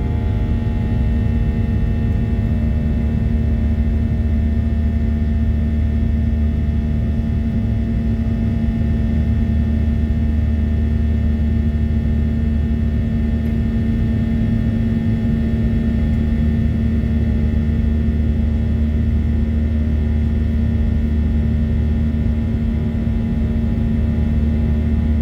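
Boeing 737-800's CFM56-7B jet engines running steadily, heard from inside the passenger cabin as a deep rumble with a steady hum and several whining tones above it.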